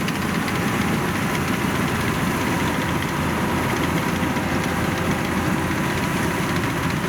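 Yanmar 850 rice combine harvester running steadily while cutting rice, its engine and threshing machinery making an even, unbroken drone.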